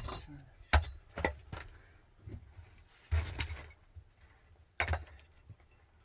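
Irregular sharp knocks and clatter, about five hits spaced unevenly over several seconds, with a longer rattling stretch near the middle.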